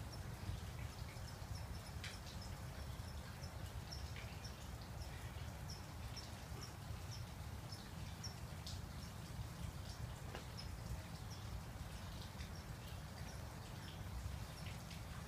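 A bird chirping over and over, one short high note about twice a second, thinning out in the second half, over a steady low outdoor rumble.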